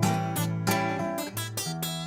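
Acoustic guitar playing a blues intro: a quick run of strummed chords and picked notes, each attack ringing out and fading before the next.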